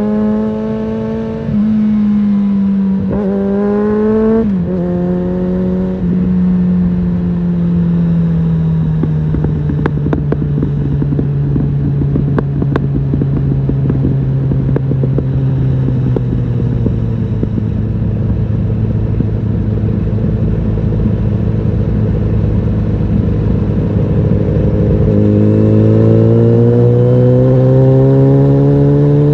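Suzuki GSF650 Bandit's inline-four engine through an aftermarket Storm exhaust, heard from the rider's seat. It changes pitch in quick steps, then the revs fall slowly and steadily for about twenty seconds as the bike slows, with a few crackles. The engine note rises again near the end as the bike accelerates.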